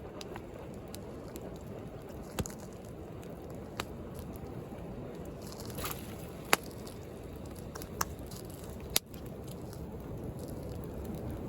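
Wood bonfire crackling, with a handful of sharp pops, the loudest about halfway through, over a steady rush of sea waves.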